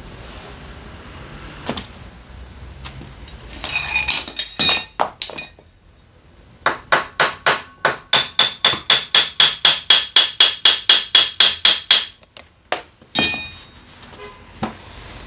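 Hammer striking metal in a quick, even run of about twenty blows, roughly four a second, each with a short metallic ring, during work on a scooter engine. A burst of metal parts clattering comes a few seconds before the run, and one more knock follows near the end.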